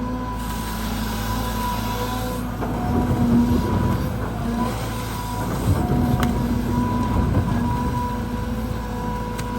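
Caterpillar 320GX excavator's four-cylinder C4.4 diesel working, with a steady hydraulic pump whine over the engine drone. The sound grows rougher and louder twice under digging load, as the bucket works through hard laterite soil, with a couple of sharp clicks.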